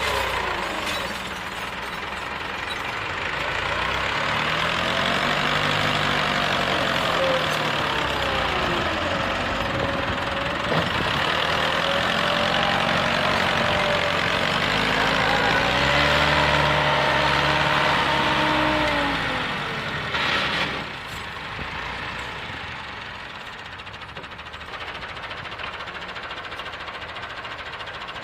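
Massey Ferguson 265 tractor's diesel engine revving hard under load twice, its pitch rising and then falling each time, as it strains to pull an overloaded trolley out of mud. A short sharp noise comes about two-thirds of the way in, after which the engine runs lower and more evenly.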